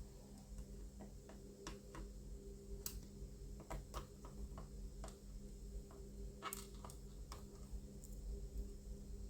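Scattered light clicks and ticks of a small cross-head screwdriver and plastic model parts being handled while a screw is driven into a model fuel tank, over a steady low hum.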